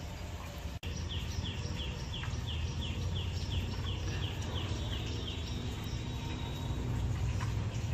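Steady low background rumble, with a bird calling a quick series of short, falling notes, about three a second, starting about a second in and stopping around the middle. The sound drops out for an instant just before the calls begin.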